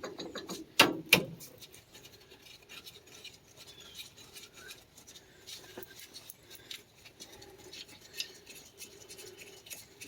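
Metal clinks from hand work on a tractor axle housing and its bolts: two sharp knocks about a second in, then light scattered clicking and scraping.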